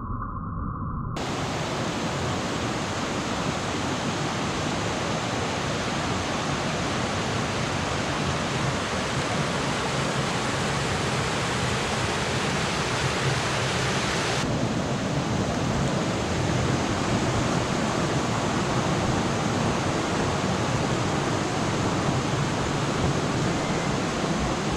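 Waterfall cascading over rocks: a steady rush of falling water that fades up over the first second or so, its high hiss dropping a little about fourteen seconds in.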